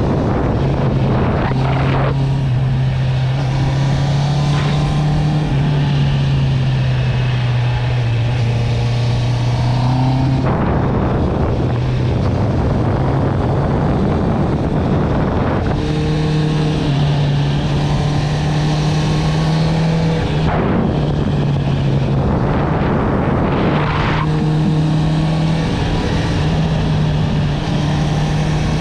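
Honda CB650R's inline-four engine through an Akrapovic exhaust, running under way and heard loud from the bike itself. It holds steady notes that step up or down several times, with short breaks where the note changes.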